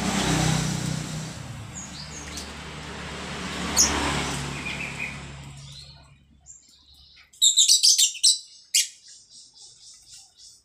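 Splashing water noise that fades out over the first six seconds, then a pet starling (jalak) calling: a quick run of loud, sharp high chirps about seven and a half seconds in, followed by softer repeated chirps.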